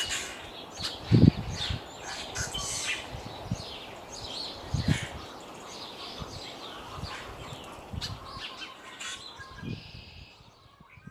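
Several small birds chirping and calling, with a few low gusts of breeze buffeting the microphone, the strongest about a second in. The sound fades out near the end.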